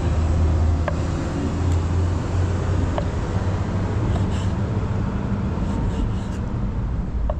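Steady low rumble and hiss of road traffic, swelling and easing as vehicles pass, with a few faint clicks.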